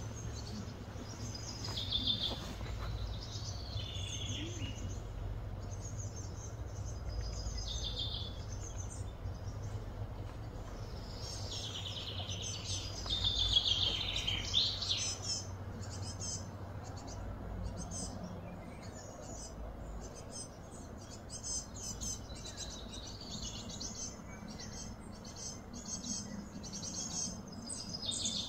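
Birds calling and chirping, some calls falling in pitch, with quicker runs of short chirps in the second half, over a steady low background rumble.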